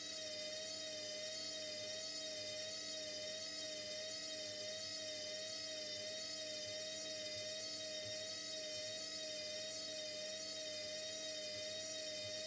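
Indesit 71252 washing machine running at a steady speed: a constant motor whir and whine with a slight regular waver in pitch.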